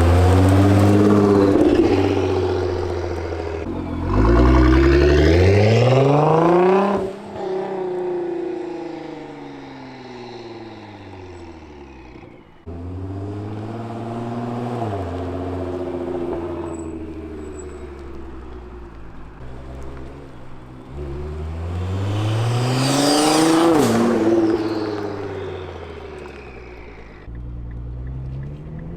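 Nissan GT-R R35's twin-turbo V6 through an ArmyTrix Valvetronic stainless exhaust, making a string of hard accelerations: the engine note climbs in pitch, falls away, then climbs again, with abrupt breaks between pulls. The loudest pull, about three-quarters of the way through, ends in a sharp drop in pitch.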